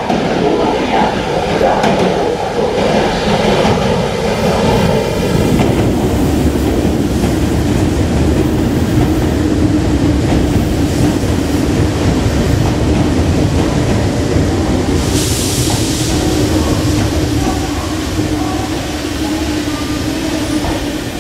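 Meitetsu limited express electric train pulling in alongside a covered station platform and slowing to a stop, its wheels and running gear rumbling steadily with a low hum. A short hiss comes about fifteen seconds in.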